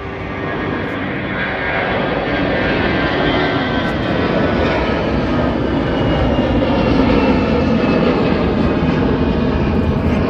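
Airbus A320's CFM56 turbofan engines at high thrust, the noise building over the first couple of seconds and then running loud and steady, with faint whining tones slowly falling in pitch.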